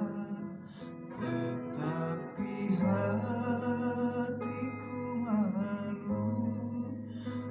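Music: acoustic guitar playing with a voice singing a slow, gliding melody over it.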